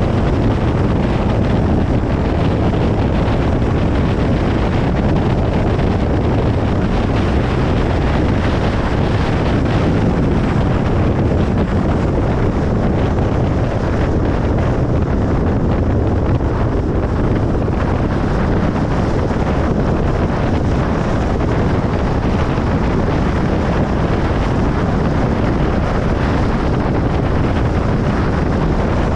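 Steady road noise of a car driving on a highway: an even, unbroken rush of tyre and wind noise, heaviest in the low range.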